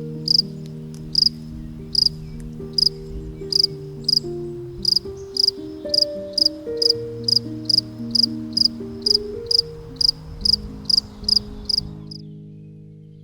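Insect chirping in short, high chirps about twice a second, stopping about twelve seconds in, over soft background music with long held low notes.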